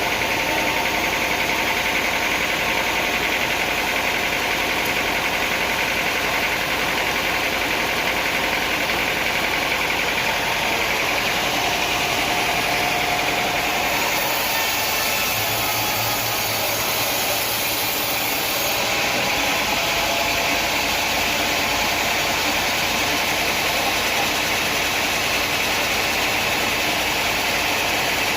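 An engine running steadily, a continuous mechanical drone with no breaks, of the kind that drives sawmill machinery.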